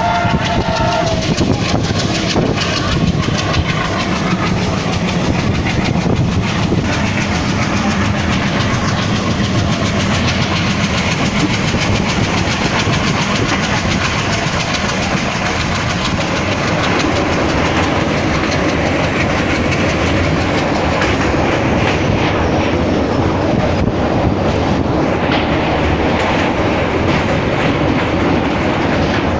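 Train running along the track, its wheels clattering steadily over the rails; a horn that was already sounding stops about a second in.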